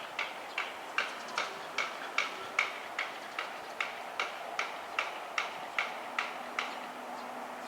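Railway level-crossing warning bell ringing in an even beat of about two and a half strikes a second, stopping near the end; a faint low hum comes in as it stops.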